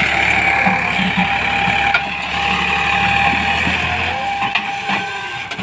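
Farmtrac 45 tractor's diesel engine running steadily. Its low note drops away about four seconds in and the sound fades toward the end.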